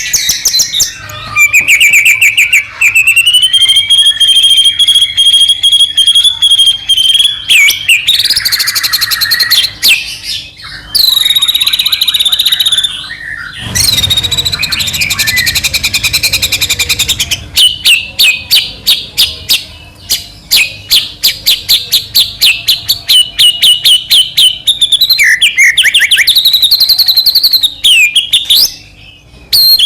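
White-rumped shama (murai batu) singing loud and without pause, in full song: a varied run of rapid trilled and clicking notes, held clear whistles, and a harsher rasping phrase about halfway through.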